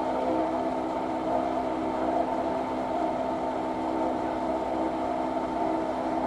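Milling machine cutting an aluminium fixture plate: a steady whine of several held tones, the cut going smoothly.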